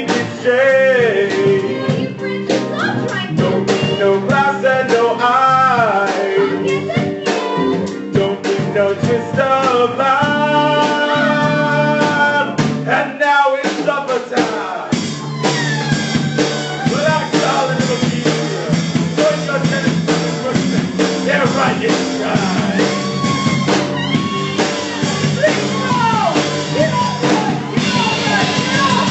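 A rock-and-roll band with guitar and drum kit playing a blues-style show tune while a singer sings. About halfway through, after a brief drop, the full band comes in louder and denser.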